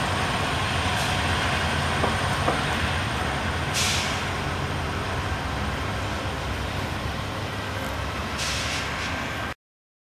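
Amtrak passenger train with P42DC diesel locomotives running by: a steady low engine rumble with wheel and rail noise, slowly fading as it moves away. Two short hisses come about 4 and 8.5 seconds in, and the sound cuts off suddenly near the end.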